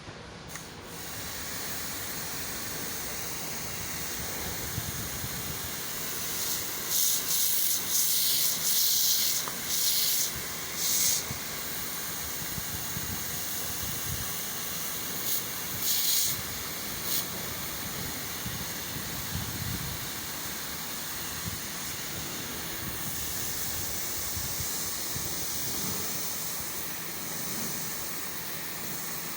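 Water jet from a pressure-washer pump spraying onto a split air conditioner during a jet-cleaning service: a steady hiss with a faint high whine, and several short, louder spurts of spray in the middle.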